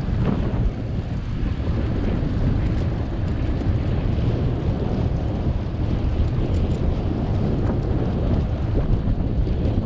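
Wind buffeting the microphone of a camera on a moving bicycle: a steady low rumble with a lighter hiss above it.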